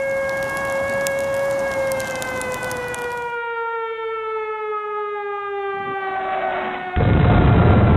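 Civil defense siren wailing, its pitch slowly falling. A crackling noise runs under it for the first three seconds or so, and a loud low rumble sets in about seven seconds in.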